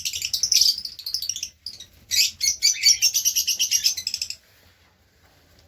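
Lovebirds chattering in a colony cage with rapid, high chirps in two bursts, going quiet after about four seconds.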